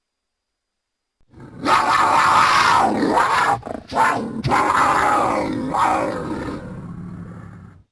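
A long, harsh monster-style roar that starts about a second in, breaks off briefly in the middle, then carries on and fades before cutting off suddenly.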